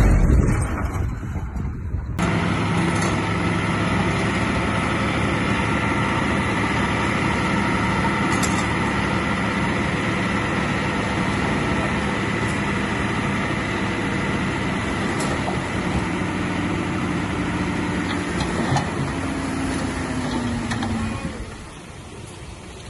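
Heavy diesel earthmoving machinery running steadily under work, with a dense mechanical clatter over the engine note. The sound changes abruptly about two seconds in, and near the end the engine pitch falls and the level drops away.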